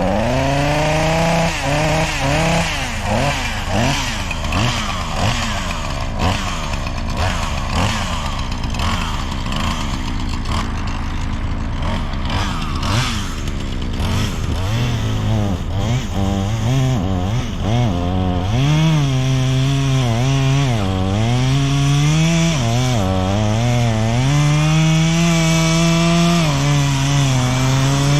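Chainsaw running, its engine revving up and down over and over as it cuts into wood, with a steady low engine drone underneath.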